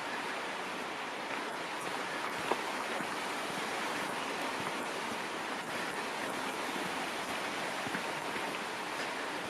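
Steady rushing of a mountain stream, an even wash of water noise, with a single light tick about two and a half seconds in.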